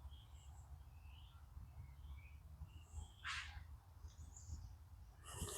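Faint wild birds chirping in scattered short notes over a low steady background rumble, with a brief harsh hiss about three seconds in and a louder sound starting near the end.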